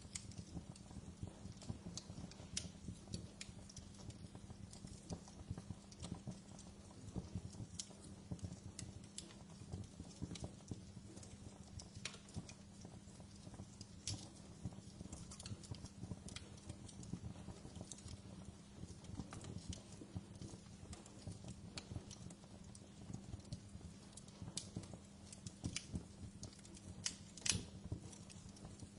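Wood fire in a fireplace crackling: a dense low crackle over a steady low rumble, with frequent sharp pops and one louder pop near the end.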